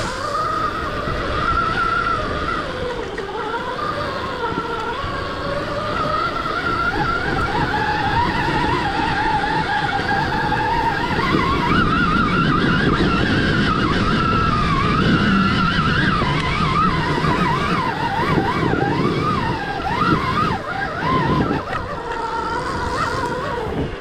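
Stark Varg electric dirt bike's motor whine, rising and falling in pitch with the throttle, over a rough low rumble that is heaviest in the middle.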